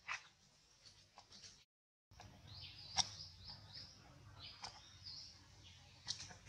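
Faint bird chirps: a run of short, quick, curving high chirps, with a few sharp clicks among them. The sound cuts to silence for about half a second near two seconds in.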